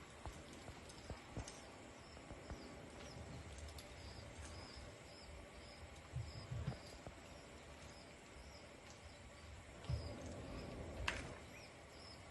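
Faint outdoor background of insects chirping steadily, with scattered clicks and a few soft low thumps about halfway through and again near the end.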